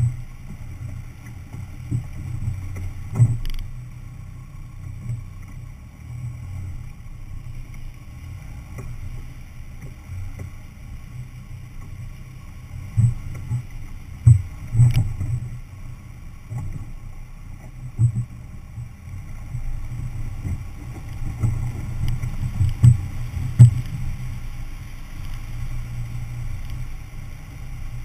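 Off-road vehicle driving through flood water: a steady low rumble with irregular thumps, the loudest bunched about halfway through and near the end.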